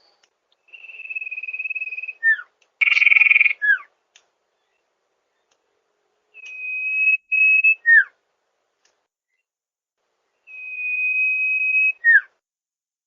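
Sirtu bird calling: a long, steady, high whistled note, then a short falling note, repeated four times with pauses. A louder, rougher note comes about three seconds in.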